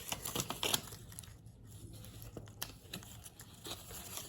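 Irregular rustling and light clicks of small objects being handled.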